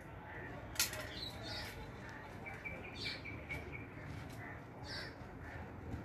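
Birds chirping in short, high notes, with a quick run of notes in the middle. There is a single sharp click about a second in.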